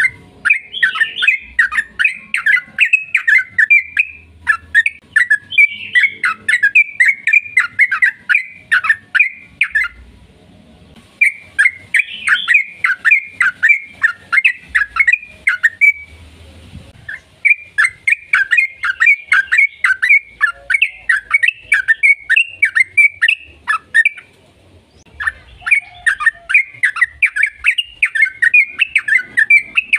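Yellow-vented bulbul (trucukan) singing long, rapid runs of chattering notes, several a second, in four long bouts separated by brief pauses.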